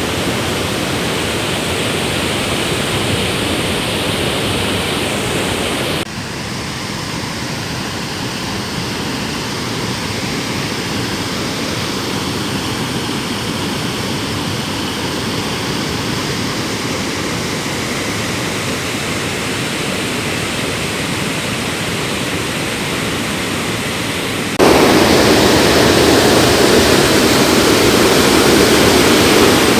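Steady rushing of water from a river swollen by heavy rain. The level drops abruptly about six seconds in and jumps louder near the end.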